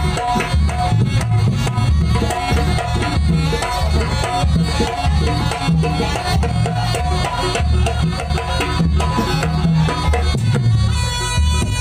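Traditional percussion music: hand drums beating a fast, steady rhythm over a melody, with a reedy wind instrument coming in near the end.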